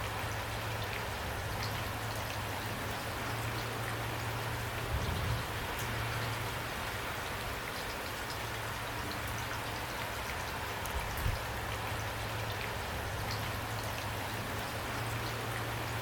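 Steady rain falling, with individual drops ticking on a surface among the constant hiss. A couple of soft low thumps come about a third of the way in and again about two-thirds in.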